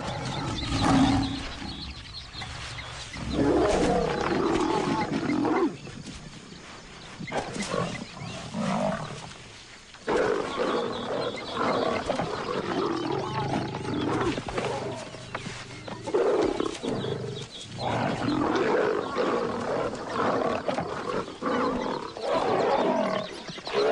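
Lionesses growling and snarling at each other in an aggressive clash, in repeated bouts with short lulls.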